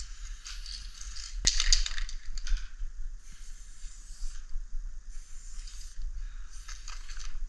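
Aerosol spray paint can sprayed in a series of short hissing bursts, each about a second long with brief pauses between, and a sharp click about one and a half seconds in.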